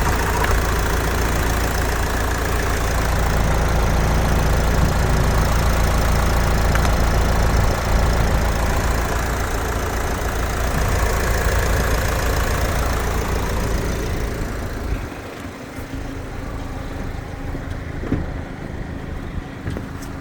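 Renault 2.0 dCi M9R four-cylinder turbodiesel idling steadily, then stopping about three-quarters of the way through, leaving only quieter background noise.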